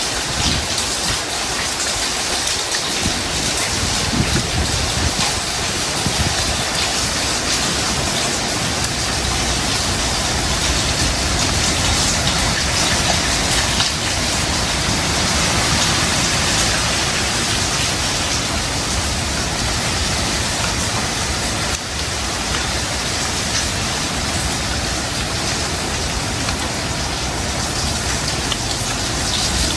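Heavy tropical rain pouring down steadily, a dense, unbroken hiss.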